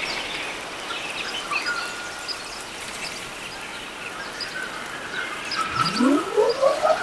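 Birds chirping in short, scattered calls over open-country ambience. Near the end a pulsing call rises steadily in pitch.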